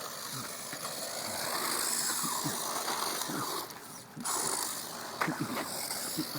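Radio-controlled Team Losi short-course truck driving at speed, a steady noisy running sound that drops away briefly about four seconds in before returning.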